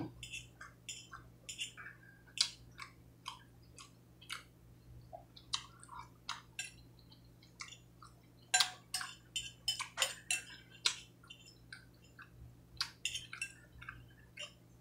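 Close-miked chewing of a mouthful of chicken and broccoli: irregular wet smacks and clicks of the lips and mouth, with a cluster of louder smacks about halfway through.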